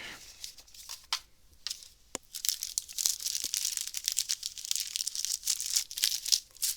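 A trading card booster pack's wrapper being torn open and crinkled: a few sharp clicks, then from about two seconds in a steady crackle of plastic foil handled by hand.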